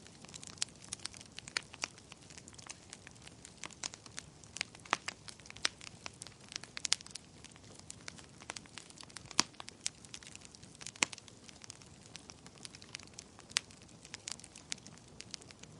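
Fire crackling, with irregular sharp pops and snaps of varying loudness over a soft steady hiss.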